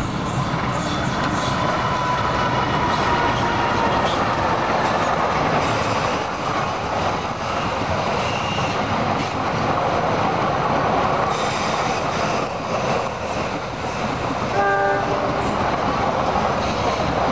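Diesel-hauled passenger train passing close by at speed, with a steady rumble and clatter of wheels on the rails. Near the end a brief horn toot sounds.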